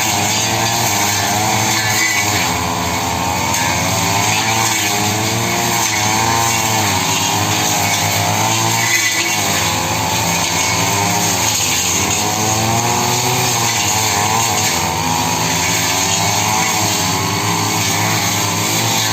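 Petrol brush cutter running continuously while clearing overgrown vegetation, its engine pitch rising and falling as the load on the cutting head changes.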